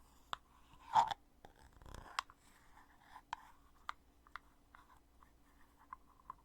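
Heavy lid of a foundation compact being opened and closed: a string of sharp clicks and taps, the loudest about a second in, with lighter ticks between.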